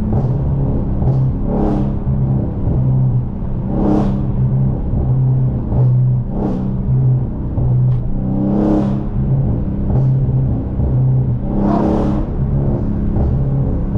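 Dodge Charger Scat Pack's 392 (6.4 L) V8 breathing through catless mid-pipes and a race exhaust, droning low while driving, with a few brief louder surges.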